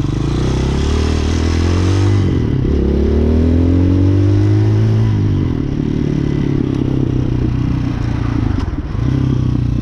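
Hawk 250 motorcycle engine running during a ride, rising and falling in pitch as it is revved up and eased off, then running more steadily.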